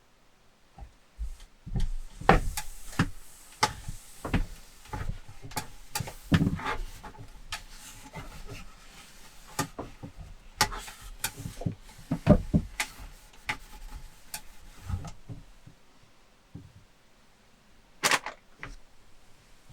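Irregular knocks, clicks and rubbing of objects being handled at close range, with a sharper knock near the end.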